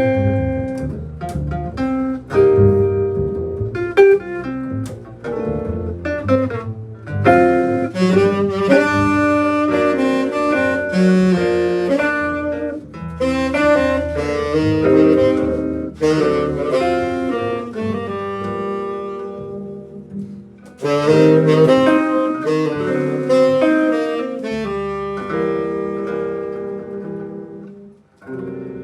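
A band playing a jazz-style tune at rehearsal, with a sustained lead melody over bass and plucked chords. The playing stops about a second before the end.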